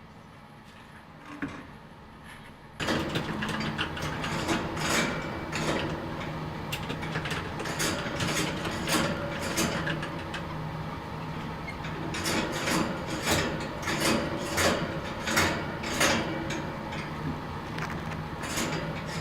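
A machine-like noise starts suddenly about three seconds in and runs on as a steady hum with many irregular clicks and rattles.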